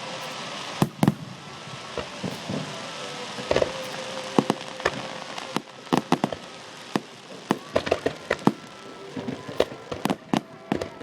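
Fireworks going off: many sharp bangs at uneven intervals over a steady crackling hiss.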